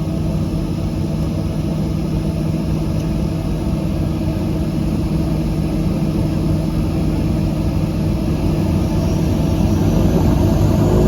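Drone of a DHC-6-300 Twin Otter's two Pratt & Whitney PT6A turboprop engines and propellers, heard from inside the cabin. It holds a steady pitch and grows slowly louder, with a faint rising whine near the end.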